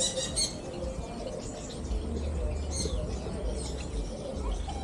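Aviary birds chirping: a cluster of quick high chirps at the start, then a few scattered calls. A low rumble sits underneath from about two seconds in.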